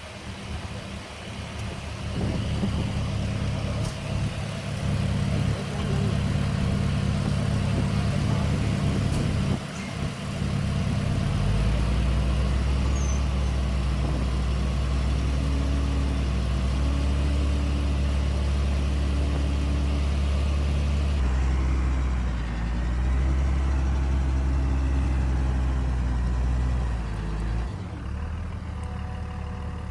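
Heavy construction-machine diesel engine running steadily under load. Its note deepens and strengthens about eleven seconds in, then shifts abruptly twice near the end.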